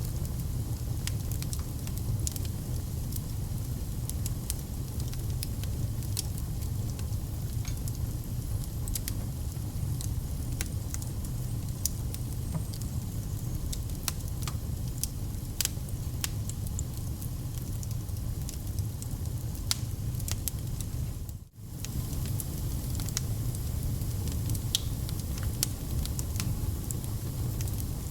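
Wood fire crackling, with frequent sharp pops over a steady low rumble; the sound drops out for a moment about three-quarters of the way through.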